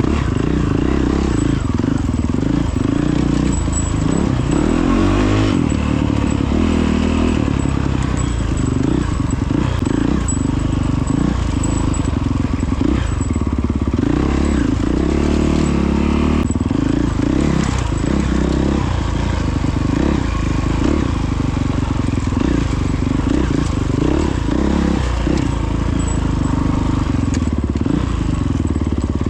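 Honda CRF450X dirt bike's 450 cc single-cylinder four-stroke engine running under way, its revs rising and falling, over a steady rush of noise.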